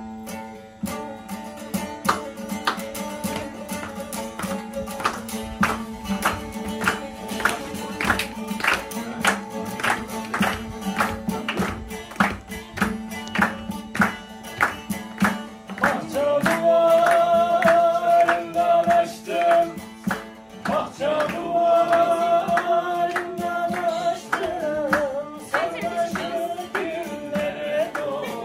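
A plucked string instrument strummed in a steady rhythm, about two strokes a second, with singing joining in about halfway through: an informal sing-along of a song.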